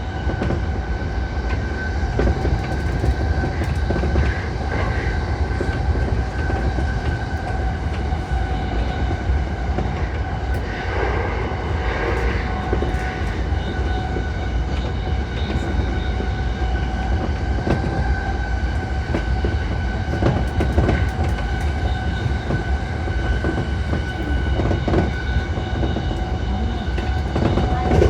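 E235-1000 series electric train running at speed, heard from inside the front car: a steady low rumble of wheels on rail, with a constant whine and faint intermittent clicks from the track. About eleven seconds in, a swell of louder noise passes.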